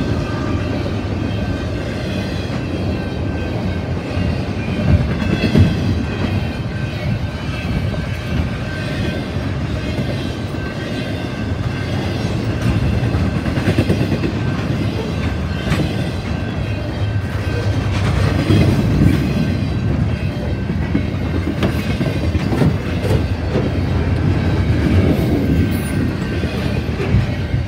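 Double-stack intermodal freight cars rolling past at speed: a steady rumble of steel wheels on rail with irregular clatter over the rail joints and a faint high steady ring.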